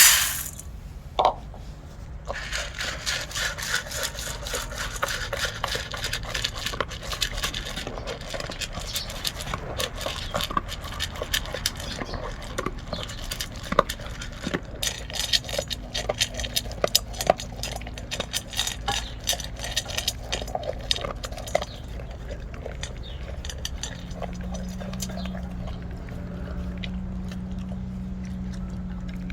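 Labrador retriever eating kibble from a bowl: rapid clicks and scrapes as the kibble rattles against the bowl, easing off after about twenty seconds. A low steady hum comes in near the end.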